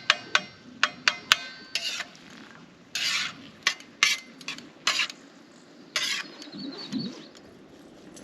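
Metal utensil clinking and scraping in a cooking pan while stirring a breakfast scramble: several ringing taps in the first couple of seconds, then a handful of separate scraping strokes.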